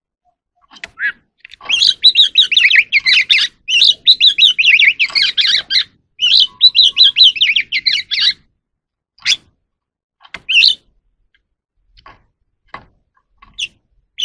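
Oriental magpie-robin singing: a fast run of varied warbling and whistled notes that starts about a second and a half in and breaks off partway through, followed by a few separate short calls.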